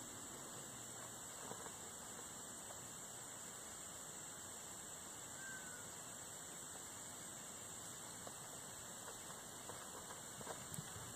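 Steady faint hiss from a quiet outdoor recording, with a single short, falling bird chirp about halfway through and a few faint ticks and rustles near the end.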